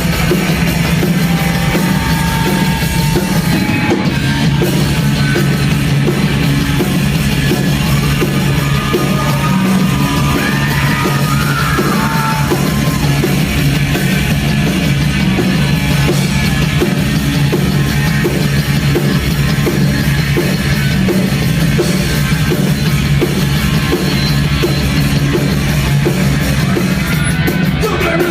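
Heavy metal band playing live: fast, steady drumming under a dense wall of sound, with yelled vocals that rise and fall in pitch in the middle.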